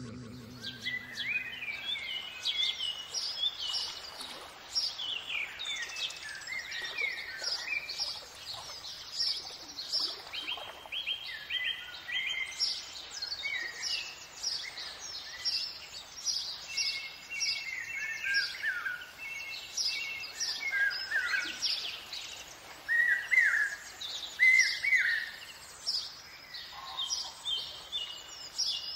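Several songbirds chirping and singing at once: many short, high calls and quick falling whistles overlapping.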